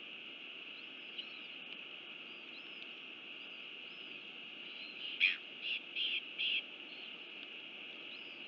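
Outdoor bird sounds: small birds give repeated short chirps over a steady high hiss, and a burst of four louder calls comes about five seconds in.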